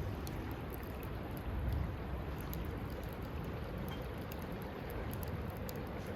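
Wood campfire burning, with scattered sharp crackles over a steady low rumble.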